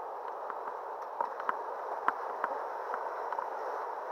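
Flowing river water rushing steadily around a kayak, with a few short sharp ticks of water.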